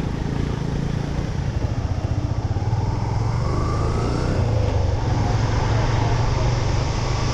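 Motorcycle engine running steadily under way, with a faint rising tone around the middle.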